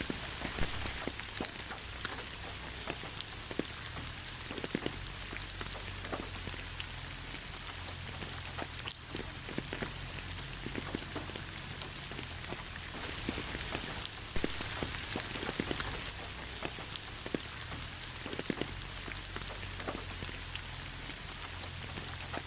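Steady rain falling, with many separate drops striking close by over a constant hiss.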